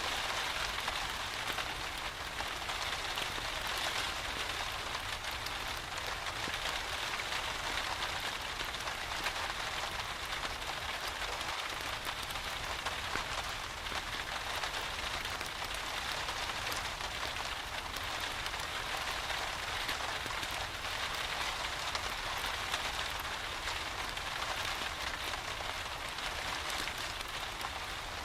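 Steady rain falling: an even, unbroken hiss with scattered small drop ticks.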